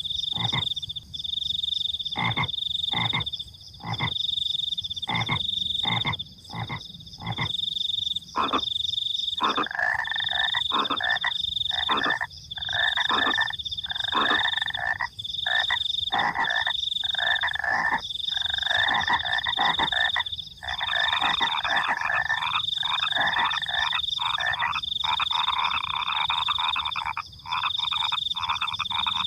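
Night chorus of frogs croaking over crickets chirping. The crickets give a high, steady trill in runs of about a second. The frogs start as sharp, separate calls, and from about ten seconds in a denser, lower croaking chorus fills in.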